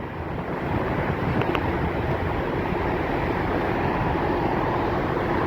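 Wind blowing across the microphone over a steady low rumble of vehicles.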